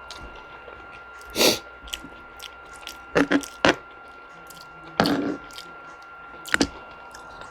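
Close-miked eating sounds: short, loud bursts of chewing and mouth noise, coming about five times with pauses between them, over a faint steady high-pitched hum.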